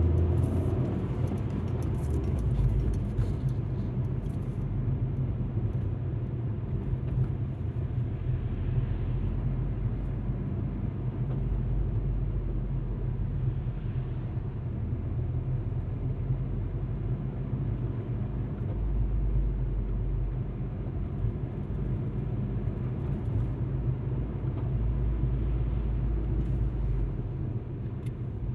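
Alfa Romeo MiTo driving along: a steady low rumble of engine and tyre noise.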